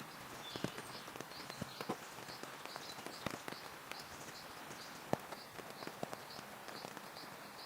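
Steady rain hiss with scattered irregular taps and knocks. A high chirp repeats about three times a second over it, with one sharper knock about five seconds in.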